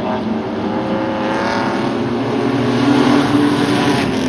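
Engines of a pack of Renegade-class race trucks running on the oval, several at once, their pitch shifting as they pass. The sound swells to its loudest about three seconds in.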